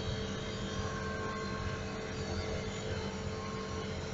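Air-conditioning unit running during refrigerant charging: a steady mechanical hum from the compressor and fan, even throughout.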